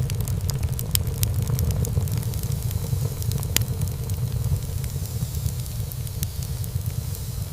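Wood fire burning in a fireplace, crackling with frequent small irregular pops over a steady low rumble of the flames, one sharper pop about three and a half seconds in.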